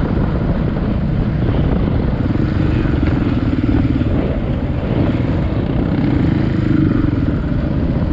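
Dirt bike engine running under way, a steady loud drone with a heavy low rumble.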